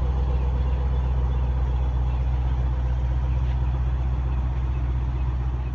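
A car engine idling steadily, a low, even hum.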